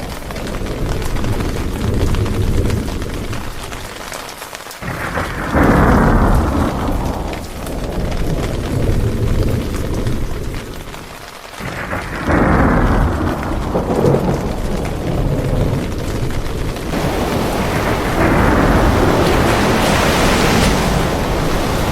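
Heavy rain and a thunderstorm, with deep rumbling surging up and fading in waves; fresh surges come about 5, 12 and 17 seconds in.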